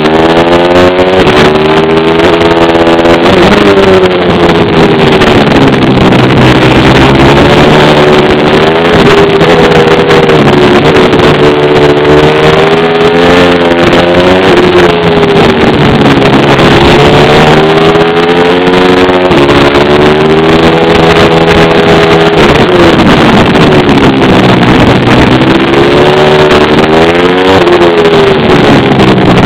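Pit bike engine, loud, revving up and easing off over and over, its pitch climbing and dropping every few seconds as the bike accelerates and slows.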